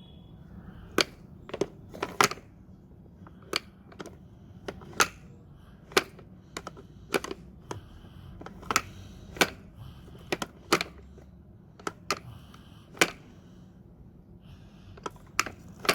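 Hard plastic toy parts clicking and knocking as a toy garbage truck and its pieces are handled: about twenty sharp, irregular clicks, roughly one a second.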